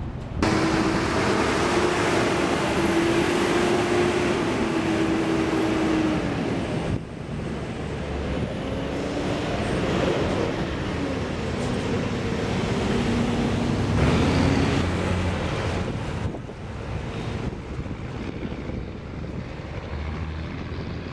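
Heavy road vehicles running, with an engine hum that drifts up and down in pitch over a steady wash of traffic noise. The sound changes abruptly several times.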